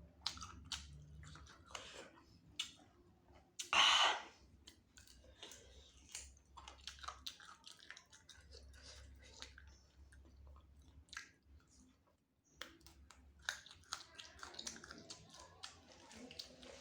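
Close-up chewing and wet mouth clicks while eating spicy chicken wings, with one louder noise lasting about half a second about four seconds in.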